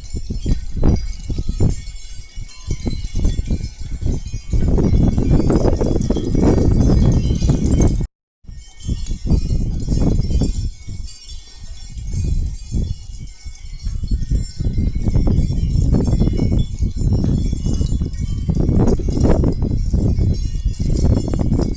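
Wind chimes ringing continuously with many overlapping high tones, over an irregular low rumble and knocking. The sound cuts out completely for a moment about eight seconds in.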